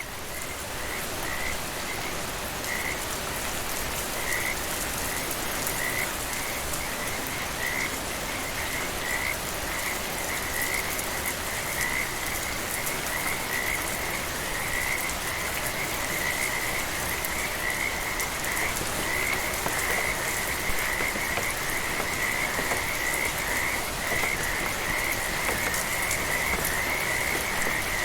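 Frogs calling in short, high, repeated notes, spaced out at first and building to a nearly continuous chorus, over the steady hiss of light rain.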